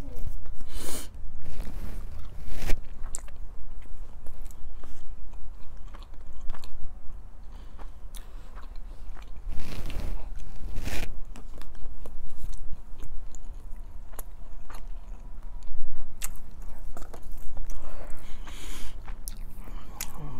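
A person chewing and biting food close to the microphone: naan bread and goat biryani, in uneven runs of wet mouth clicks and chewing.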